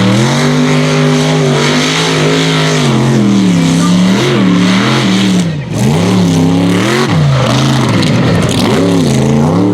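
Mega truck racing engine at full throttle, its pitch held high, then falling and rising again and again as the throttle is worked. There is a brief drop about five and a half seconds in.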